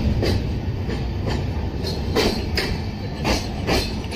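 Passenger train running on the line: a steady low rumble with sharp clacks of the wheels over rail joints, several coming in pairs about half a second apart.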